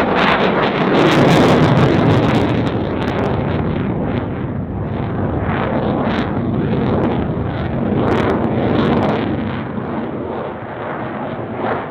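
Loud jet noise from a Dassault Rafale's twin Snecma M88-2 turbofans flying its display, loudest about a second or two in and then easing a little.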